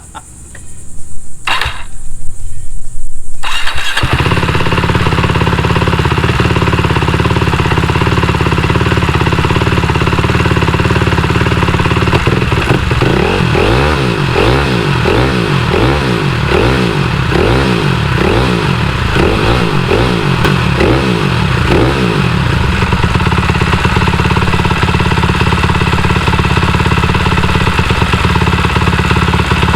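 Cannondale 440 single-cylinder four-stroke dirt bike engine starting on the electric starter and catching within the first few seconds, then running steadily. About twelve seconds in, it is blipped up and down about once a second for some ten seconds, then settles back to a steady fast idle. It is being run to burn off oil that pooled in the head after the bike sat for months.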